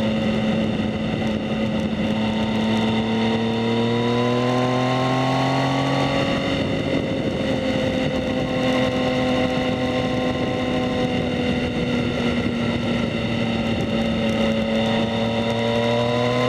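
2019 Yamaha MT-09's inline-three engine running through a Two Brothers S1R full exhaust while being ridden. The note rises for a few seconds, drops back about six seconds in, holds steady, then rises again near the end.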